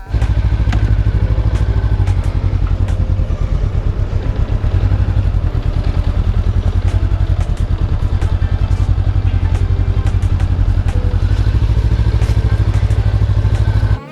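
Honda CB500F's parallel-twin engine running steadily, close to the microphone, with an even rapid firing pulse and no marked revving.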